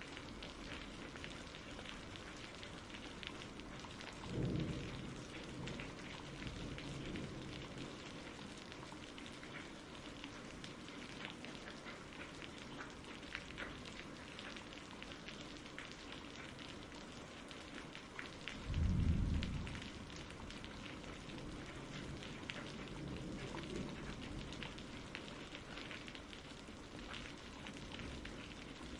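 Steady rain with patters of drops, and two brief low rumbles of thunder, about four seconds in and again, louder, about nineteen seconds in.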